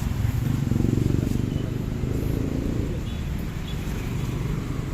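Isuzu 6HK1 diesel engine turning over with a low, steady pulsing rumble, a little louder in the first three seconds and then easing slightly.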